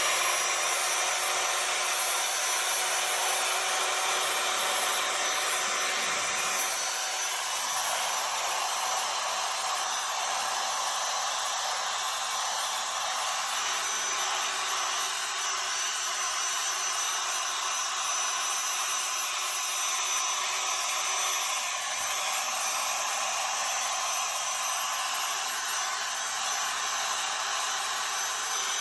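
Handheld power sander running steadily with a thin motor whine, sanding loose debris off a surface to prepare it for paint.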